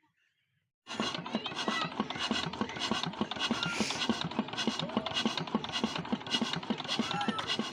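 Old diesel tubewell engine running at a slow, even chug, with a regular knock about four times a second over a rasping mechanical clatter; it cuts in suddenly about a second in.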